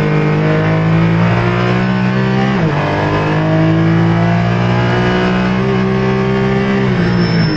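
Porsche Cayman GT4's flat-six engine accelerating hard, heard from inside the cabin, its pitch climbing steadily. The pitch drops sharply on an upshift about two and a half seconds in, climbs again, and drops once more near the end.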